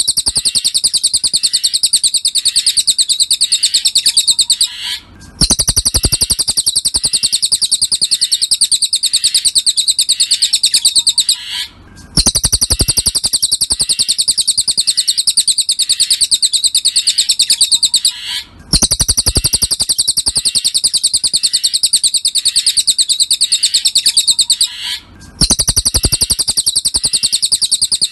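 Cililin song: a very fast, high-pitched trill of rapid repeated notes, sung in long phrases of about six seconds with short breaks between them. It is a repeating recording used as a master track for training songbirds.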